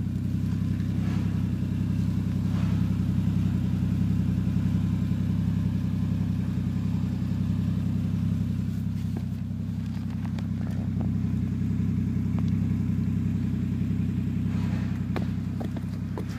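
Toyota Mark II (110 series) engine running steadily at idle, a low even drone with no revving.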